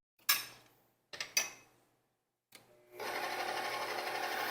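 Two short clatters, about a third of a second and a second and a half in, then an electric kitchen mixing appliance's motor starts up past halfway and runs steadily, blending cheesecake batter.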